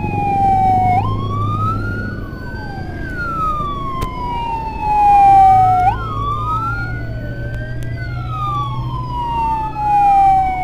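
Two sirens wailing together, each sweeping slowly up and down about every five seconds, out of step so that their pitches cross. A steady engine hum runs underneath.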